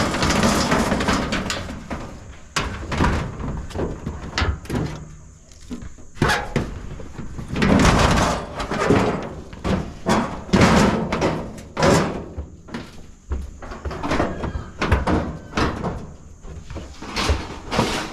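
Scrap metal being thrown into a pickup truck bed: a run of irregular metal clanks and bangs, with the heaviest crashes near the start and in the middle.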